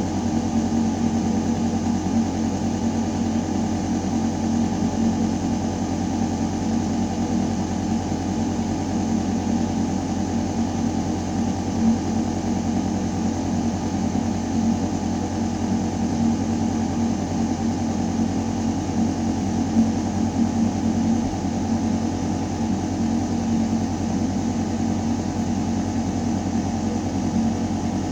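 Building ventilation shaft running: a steady mechanical hum of air moving through metal ductwork, a deep constant drone with a fainter even hiss of air over it.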